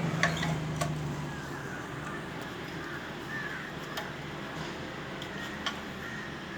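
Birds calling in the background, with a few light, sharp clicks of engine parts being handled. A low hum fades out in the first second or so.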